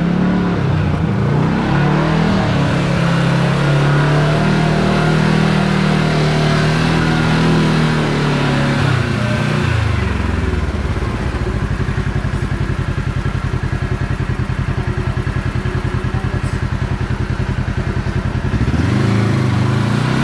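Side-by-side UTV engine running under load as it climbs a rocky trail in low range, dropping to a low, evenly pulsing note about halfway through and picking up again near the end.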